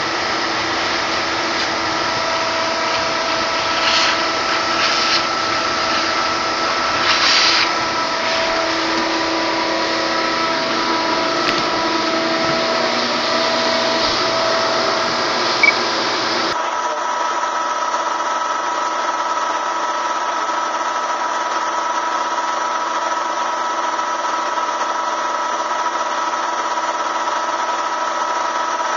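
Bee vacuum running steadily with a whining motor tone, with a few short hissy bursts in the first several seconds. About halfway through, the sound changes abruptly and loses its low rumble while the motor tone carries on.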